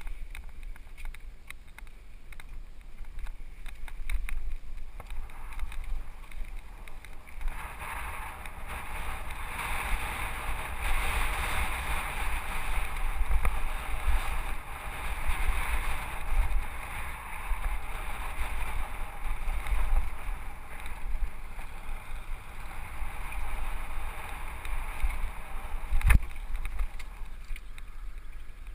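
Wind buffeting a helmet-mounted GoPro's microphone while riding a Specialized FSR Pro mountain bike, with a steady rush of tyres rolling over dirt and rock that grows louder for most of the middle stretch. A single sharp knock sounds near the end.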